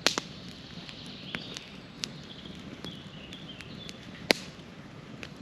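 Campfire crackling: a few sharp, irregular pops from the burning wood, the loudest about four seconds in.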